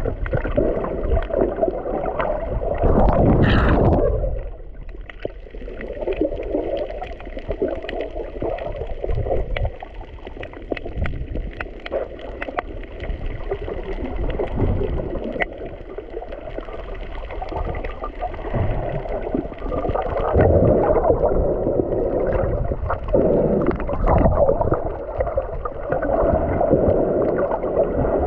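Muffled sloshing and gurgling of water around a snorkeler's camera, with a louder rush of water about three seconds in.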